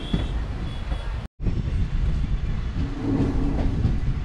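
Express passenger train running on the rails, a steady low rumble of coach wheels on the track. The sound cuts out for an instant about a second in.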